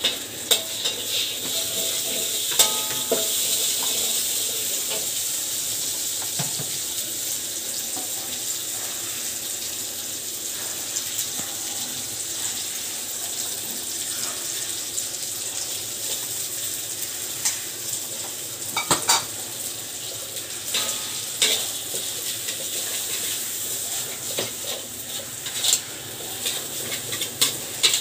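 Seasoning frying in a hot metal wok, a steady sizzle. A metal spatula scrapes and clanks against the wok now and then, more often near the end.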